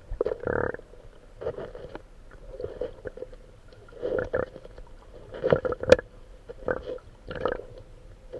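An animal making short, rough calls, about a dozen in quick irregular succession.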